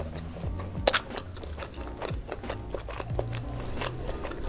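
Close-up chewing and wet mouth clicks of someone eating spiced rice and fried chicken, with one sharper click about a second in. Soft background music plays underneath.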